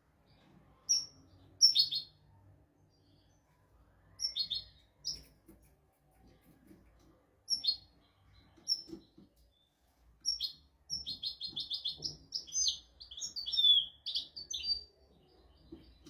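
European goldfinch singing: a few short, scattered chirps, then from about ten seconds in a fast, dense run of twittering notes lasting several seconds.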